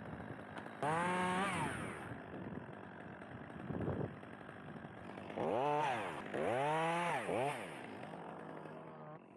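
Chainsaw revved three times, each rev rising in pitch and falling back, with the saw running lower between revs.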